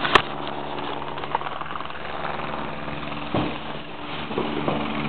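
An engine running steadily at idle, a low hum, with two sharp clicks right at the start and a smaller knock about three and a half seconds in.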